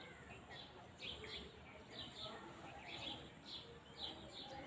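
Small birds chirping: short high notes repeating two or three times a second over a low, steady outdoor rumble.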